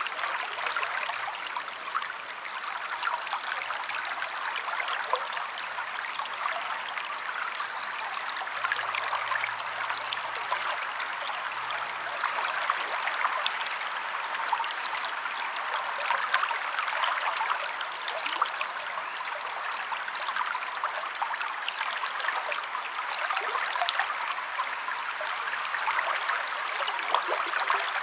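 A river flowing over rocks: a steady, babbling rush of water with many small splashes. Short high bird trills come every few seconds.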